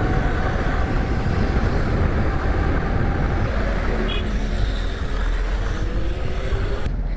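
Steady rush of riding an electric minibike through traffic: wind and road noise with a faint electric-motor whine, cutting off abruptly near the end.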